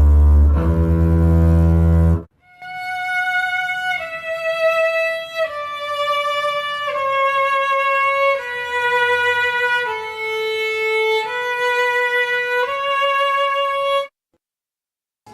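A double bass holds deep bowed notes, cut off about two seconds in. Then a violin plays a slow line of long high notes, stepping down note by note and rising again over the last two, before stopping abruptly about a second before the end.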